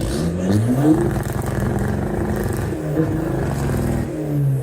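Ford Mustang's 5.0-litre Coyote V8 revving: the revs climb quickly in the first second, hold with small dips, then fall away near the end.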